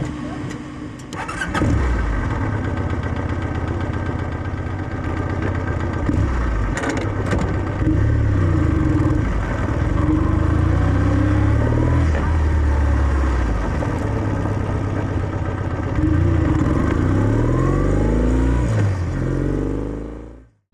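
Kawasaki W650's air-cooled parallel-twin engine through its stock exhaust, starting up about a second and a half in and then pulling away, the revs rising and dropping back several times through the gears. It fades out near the end.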